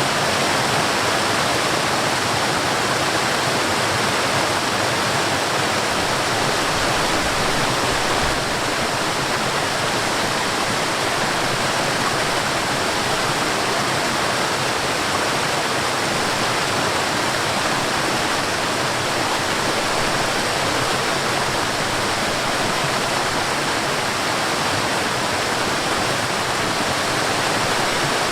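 Water cascading over a small waterfall into a stream: a steady, even rush of falling and flowing water. A brief low rumble comes about seven seconds in.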